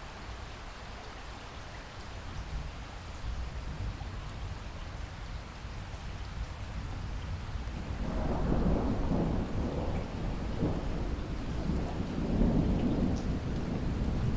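Steady rain falling, with a low roll of thunder that builds about halfway through and keeps rumbling.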